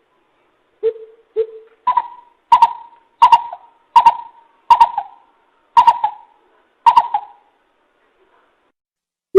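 Greater coucal calling: two low hoots, then a series of seven louder, higher hooting notes about 0.7 s apart, each dropping in pitch at its end.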